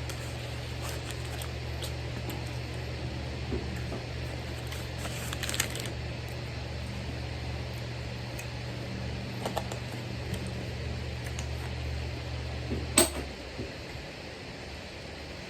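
Steady low machine hum, like a fan or appliance motor, which stops with a sharp click near the end; a few light clicks and taps over it.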